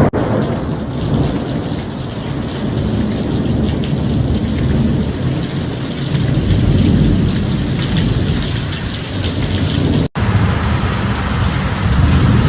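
Heavy rain falling steadily, with low rolling thunder rumbling under it and swelling a few times. The sound breaks off for a moment about ten seconds in.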